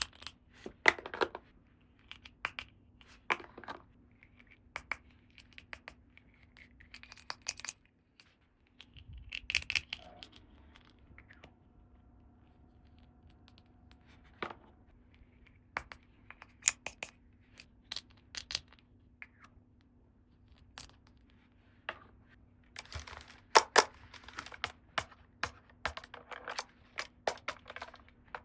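Small plastic toy pieces and packaging being handled: scattered clicks, taps and scratchy rustles, with a quick run of clicks near the end.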